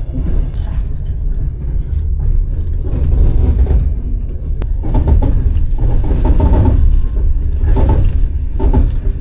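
A moving train's loud, steady, low rumble.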